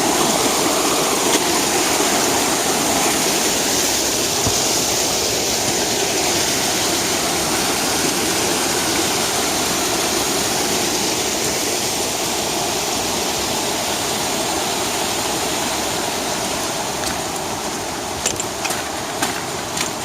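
Steady loud rush of a fast-flowing mountain creek in full flow, easing slightly near the end, with a few light taps in the last few seconds.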